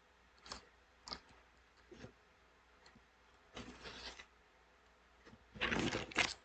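Tarot cards being handled: a few light clicks, then a short rustling burst about three and a half seconds in and a louder, denser rustle of cards near the end.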